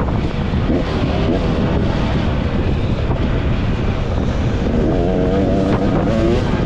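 Dirt bike engine being ridden, its pitch rising and falling as the throttle is worked, with wind rushing over the microphone.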